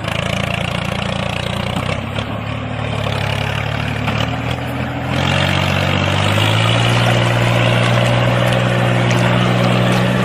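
Small motor of a DIY mini model tractor running steadily, its pitch stepping up about five seconds in and then holding.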